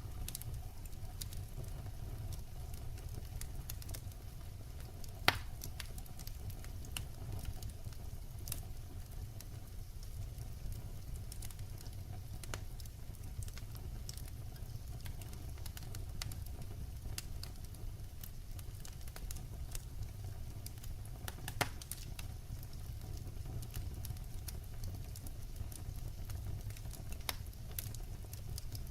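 Burning firewood crackling over a steady low rumble, with scattered small snaps and two sharper pops, one about a fifth of the way in and one about three quarters through.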